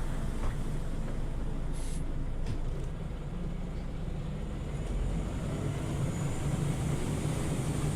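Scania OmniLink city bus's diesel engine running steadily, heard from inside the passenger cabin as a low drone, with a few faint clicks and rattles in the first couple of seconds.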